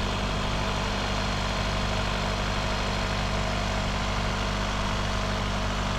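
Turbocharged four-cylinder direct-injection car engine running steadily at raised revs while intake-valve cleaner is sprayed into its intake, with the electric radiator cooling fan running.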